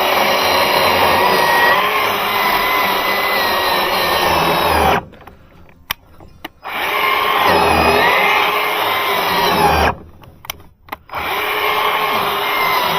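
Bauer 20V cordless electric chainsaw running and cutting through lumber, its motor pitch wavering and sagging under load. The saw stops twice, about five and ten seconds in, for a second or so each time, then runs again.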